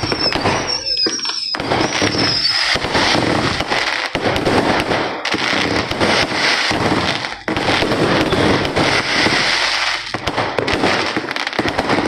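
Many fireworks and firecrackers going off at once in a dense, continuous crackle of pops, with a few falling whistles in the first two seconds.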